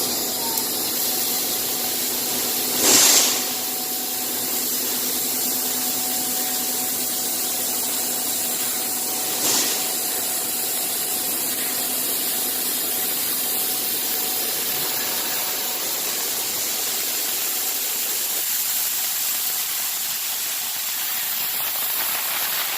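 Bystronic CNC machine running with a steady hum and hiss. A short burst of hiss comes about three seconds in, and a briefer one near ten seconds.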